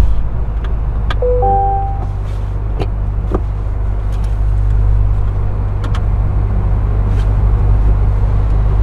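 Sports car's engine and drivetrain rumbling steadily as heard from inside the cabin while driving, with a few light clicks. A brief electronic chime sounds about a second in.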